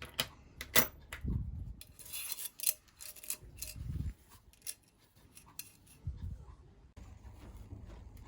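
Hand work on a bicycle bottom bracket being greased and reassembled: sharp small metal clicks and taps, a stretch of scraping and rubbing, and a few dull knocks as the parts are handled and fitted.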